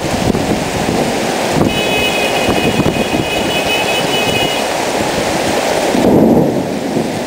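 Heavy rain pouring down in a loud, steady rush. A thin high-pitched tone sounds for about three seconds in the middle, and a low rumble swells up near the end.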